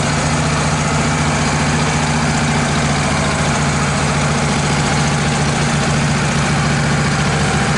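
Wood-Mizer LT15 portable sawmill's engine idling steadily, a constant drone with no cutting.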